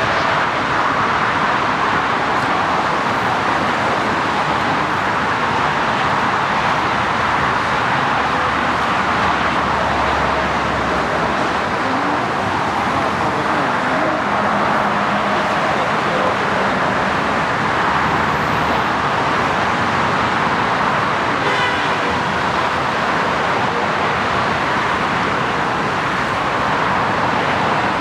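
Jet engine noise from an Embraer E195LR's twin turbofans: a loud, steady roar that holds evenly throughout.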